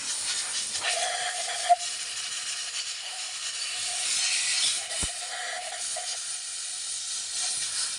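Compressed-air blow gun hissing as it blasts water out of a BMW M50/M52 spark plug well, the hiss swelling and easing in strength. Water in the plug wells is the cause of the engine's misfire. There is a sharp click a little under two seconds in.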